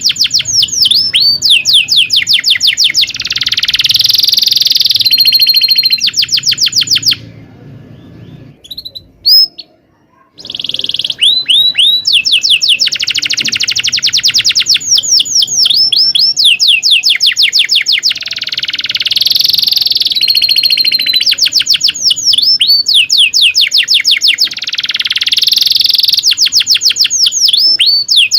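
Domestic canary singing a long, loud song of rapid trills: fast runs of repeated sweeping notes, with a pause of about three seconds a quarter of the way in.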